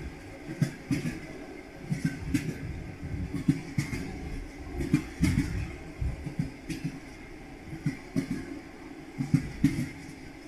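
Train wheels clattering over rail joints: a steady low rumble broken by frequent knocks, some in close pairs.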